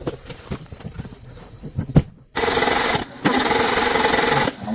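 Scattered light knocks and clicks, then about two and a half seconds in a power tool starts running with a steady hissing noise and a hum. It dips briefly twice.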